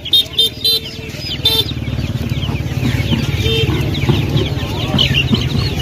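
Chickens clucking and squawking: several short, loud calls in the first second and a half and another a little past the middle, over a steady background din.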